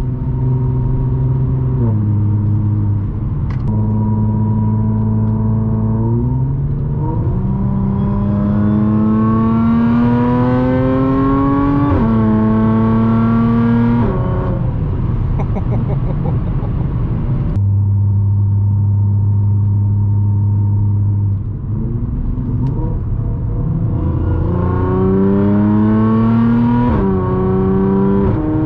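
Supercharged Audi S4's 3.0 V6 through an AWE exhaust with test pipes, heard from inside the cabin: steady cruising, then hard acceleration with the pitch climbing, dropping at a gear change and climbing again before the driver lifts off about halfway through. After a steady stretch it pulls up through another gear change near the end.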